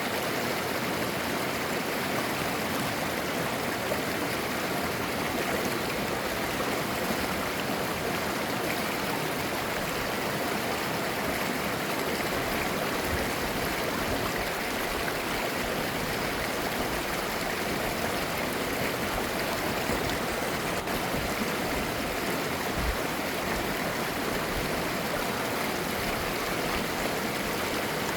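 Mountain stream running over rocks: clear water gurgling and babbling at a steady level.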